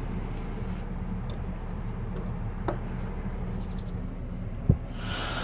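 Steady low rumble of wind buffeting the microphone, with a single sharp thump about four and a half seconds in and a brief rustling hiss near the end.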